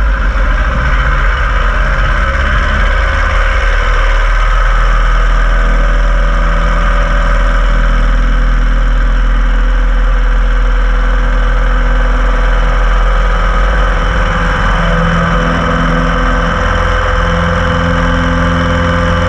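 Piper Super Cub floatplane's engine and propeller running loud and steady at high power during the takeoff run on the water. A slight change in the low drone comes about 15 seconds in.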